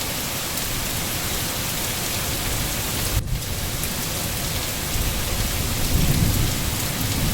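Steady rain falling, an even hiss, with a low rumble of thunder that builds about five seconds in and peaks around six seconds.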